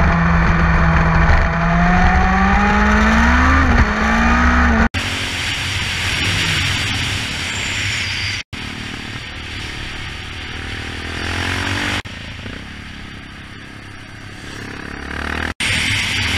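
Motorcycle engines on the move, in several short clips cut together: first an engine running at a steady pitch that rises briefly about four seconds in, then stretches of wind and road rush over a low engine drone, the sound changing abruptly at each cut.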